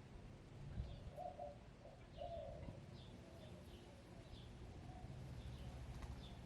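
Backyard hens giving a few short, soft, low clucks in the first half, with small wild birds chirping faintly and repeatedly in the background.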